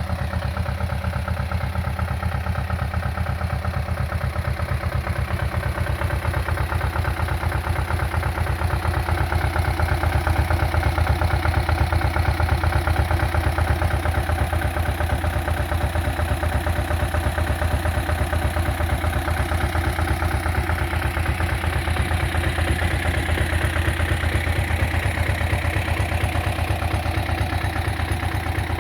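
Barbieri Terratrack tractor's engine running steadily at idle, a fast, even firing beat throughout, swelling slightly louder for a few seconds about a third of the way in.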